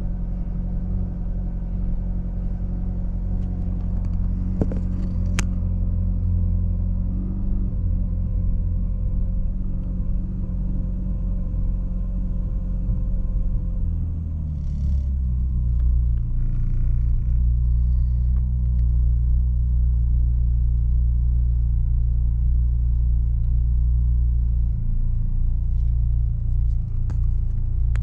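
Ferrari California 30's 4.3-litre V8 at its cold-start fast idle, heard from inside the cabin. The idle steps down to a lower, deeper note about halfway through as the engine settles.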